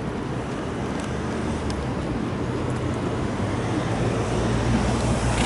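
Road traffic noise with a low engine hum that grows louder near the end, as a vehicle approaches.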